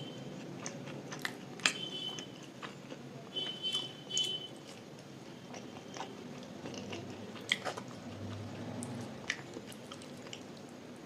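Close-miked chewing and biting as a person eats luchi with vegetable curry: soft, wet mouth sounds with scattered sharp clicks.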